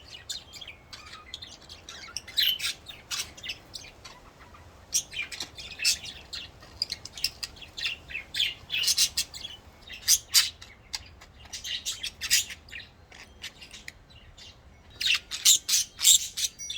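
Budgerigars chirping and chattering in quick bursts of short, high calls.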